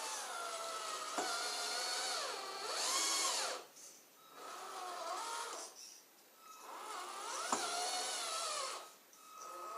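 Small electric drive motor and gears of a model Scania 6x6 truck, whining in three bursts that rise and fall in pitch with short pauses between them, as it tries to climb a small slope. Two sharp clicks come about a second in and about seven and a half seconds in.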